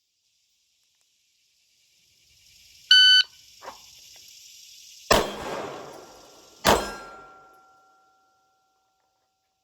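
A shot timer's single electronic start beep, then two shots from a Glock 45 9mm pistol about a second and a half apart. A clear ringing tone hangs on for about two seconds after the second shot.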